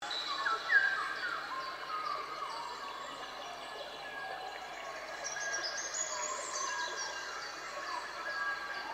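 Several small birds singing and chirping, many short high notes overlapping, over a faint steady background noise.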